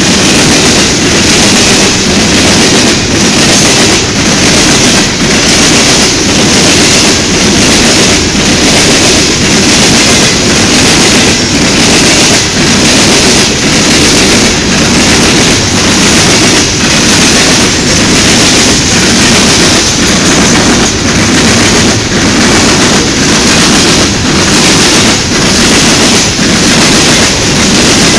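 Open-top coal hopper cars of a CSX coke train rolling past close by: loud, continuous rumble of steel wheels on rail, with a steady clickety-clack as wheel sets pass over the rail joints.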